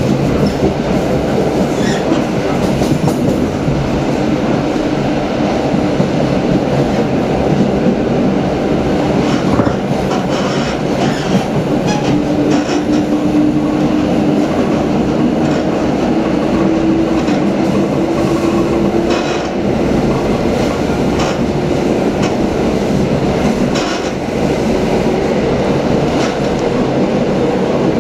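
Passenger train running at speed, heard from inside the carriage: a steady rumble and rush of wheels on rail with occasional clicks over the track. A faint whine rises slightly in pitch from about twelve seconds in.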